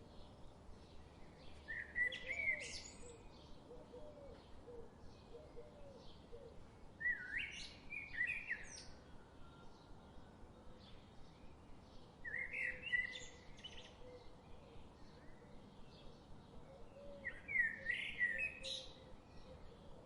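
A songbird singing a short, varied phrase four times, about five seconds apart, over a background of faint chirps repeated a few times a second.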